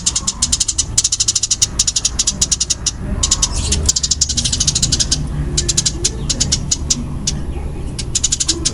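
Eurasian tree sparrow giving the fast, dense, loud chattering chirps of a fighting ('tarung') call, in rapid runs broken by short pauses about three seconds in and again near the end.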